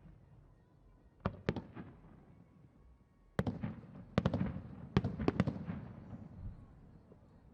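Aerial fireworks shells bursting: two or three sharp bangs about a second in, then a quick cluster of bangs from about three and a half seconds on, each followed by a rumbling echo that dies away.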